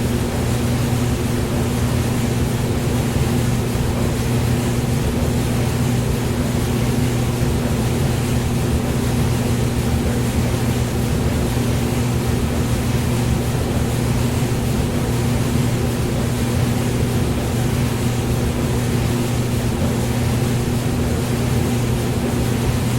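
Hair dryer running steadily: a continuous rush of air over a low, even motor hum.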